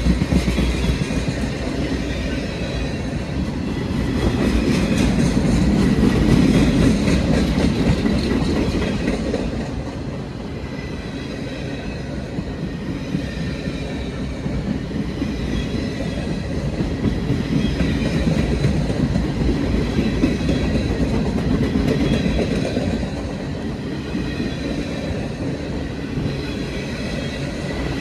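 Passenger train running along the track, heard from inside a car: a steady rumble of wheels on rail with clickety-clack and a faint high whine. It swells louder twice as the train rides.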